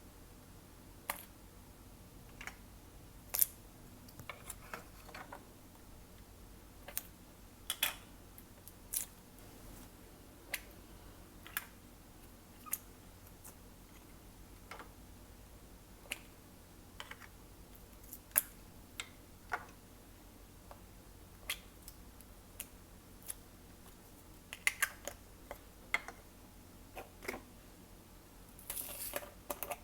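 Glossy slime being mixed, giving irregular sharp clicks and pops about every second or two, with a short run of dense crackling near the end.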